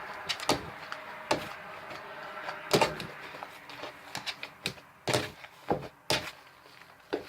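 Slime being squeezed and worked by hand: about a dozen irregular wet clicks and smacks, a few louder ones near the middle and about five seconds in.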